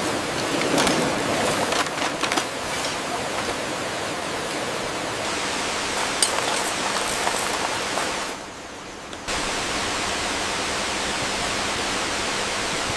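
Steady, even rushing of a large waterfall. A scatter of sharp clicks and knocks sits on top of it in the first few seconds and again about six to eight seconds in, and the rush briefly drops in level for about a second around eight to nine seconds.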